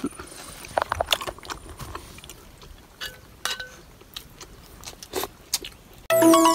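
A person chewing a mouthful of grilled milkfish close to the microphone: soft, irregular smacks and clicks. Electronic music cuts in suddenly near the end and is much louder.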